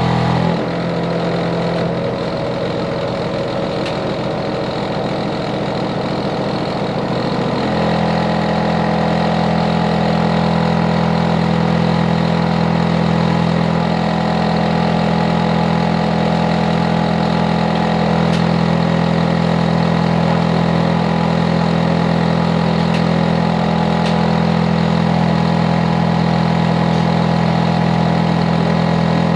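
Hitachi air conditioner outdoor unit running loudly with a steady droning hum. About half a second in, its deepest tones drop away and the sound turns fluttery for several seconds, then the full hum settles back in.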